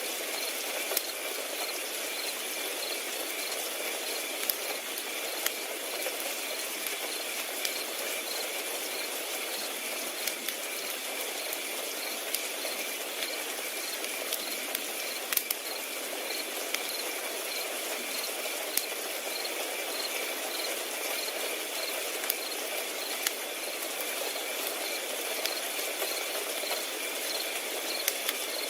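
Crickets chirping in an even, regular rhythm, over a crackling wood fire that gives off scattered sharp pops and a soft hiss.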